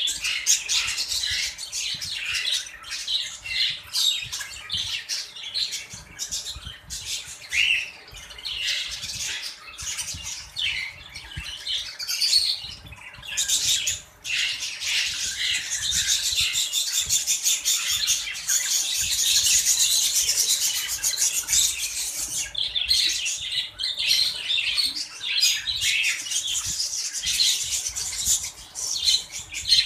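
Budgerigars chattering and squawking: a dense, unbroken stream of quick overlapping chirps and warbles from several birds, dropping off only briefly about halfway through.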